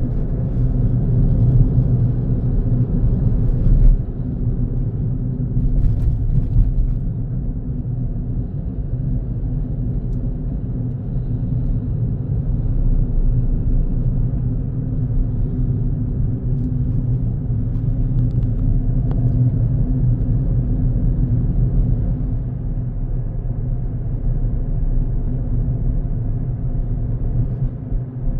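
Car driving steadily on the road, a constant low engine and road rumble, with a couple of brief knocks about four and six seconds in.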